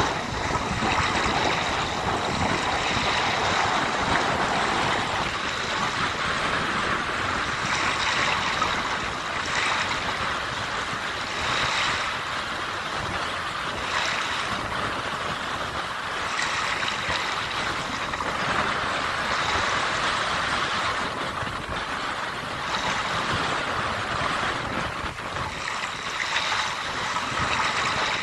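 Sea waves breaking and washing ashore in the wind: a continuous rush of surf that swells and eases every few seconds.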